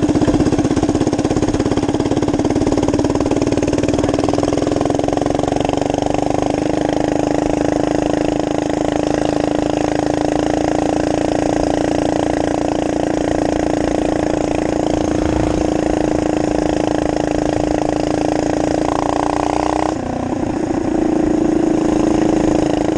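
Minibike's small engine running loud and steady at a constant speed, then briefly dropping off about twenty seconds in before picking back up.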